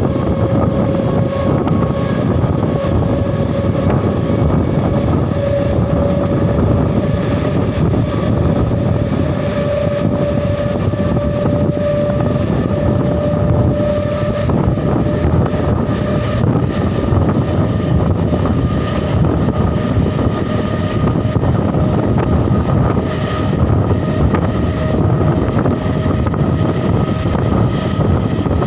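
Kakinada–Visakhapatnam MEMU electric train running at speed, heard from aboard: a steady rumble and rush of running noise with a faint steady whine through it.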